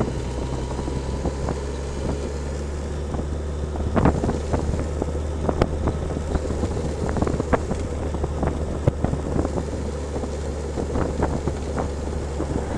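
Vehicle ride noise: a steady low running hum with wind on the microphone, broken by many short sharp knocks and rattles, thickest from about four seconds in, as on a rough road.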